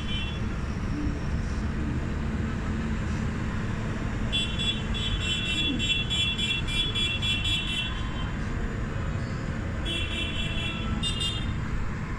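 Steady low rumble of vehicle engines and road noise, with a horn sounding in a rapid series of short, high toots for several seconds from about four seconds in, and shorter runs of toots near the end.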